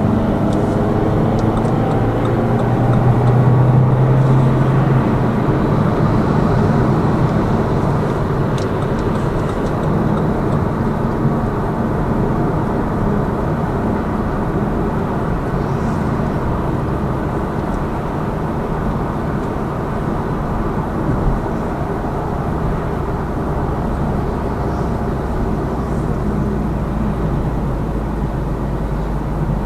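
Lada Vesta Cross's 1.8-litre engine and tyre and road noise heard from inside the cabin while driving. The engine note rises in the first two seconds as the car accelerates, then settles into steady running.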